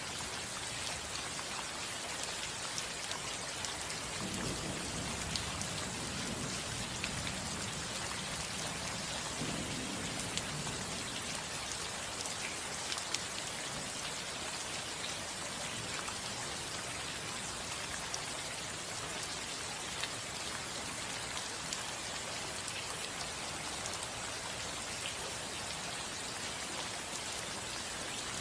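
Steady rain falling on a roof, a constant patter with scattered individual drop ticks. A low rumble of thunder swells about four seconds in and again around ten seconds.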